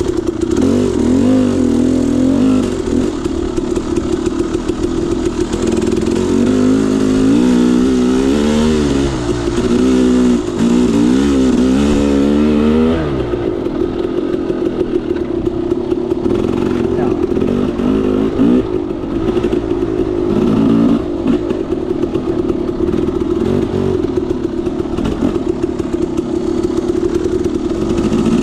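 KTM 300 XC-W two-stroke dirt bike engine under riding load, revving up and down in quick repeated bursts for several seconds, then running more steadily at a lower pitch.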